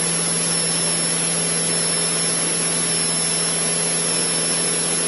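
Cessna 152's four-cylinder Lycoming engine and propeller running steadily at climb power, a constant drone with hiss as heard inside the small cabin, with a thin high-pitched whine running over it.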